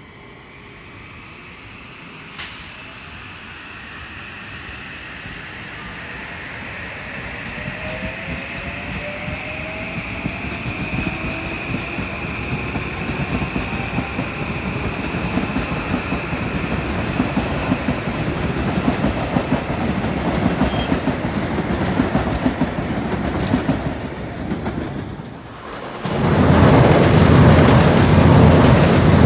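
Metro-North M8 electric multiple-unit train moving off, its wheel and motor noise building slowly, with a steady high whine and a rising whine as it gathers speed. About 26 s in, a train passes close by at speed and the noise jumps suddenly to a much louder rush of wheels on rail.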